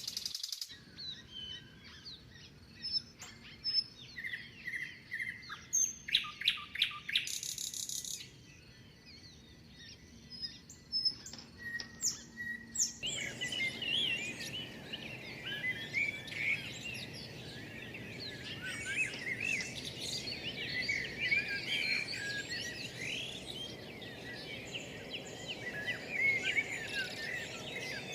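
Songbirds calling and singing: scattered whistled calls and quick trills at first, then about halfway through an abrupt switch to a dense chorus of many birds over a steady background hiss.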